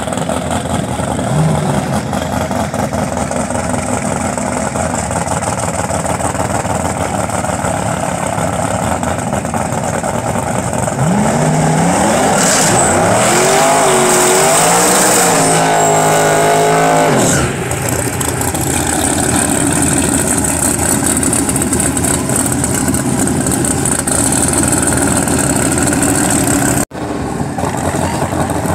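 Drag-racing car engines at the strip, running over a steady noisy bed. From about eleven seconds in, one car's engine gets louder and revs up in several rising steps of pitch, then cuts off abruptly some six seconds later. The sound drops out for a moment near the end.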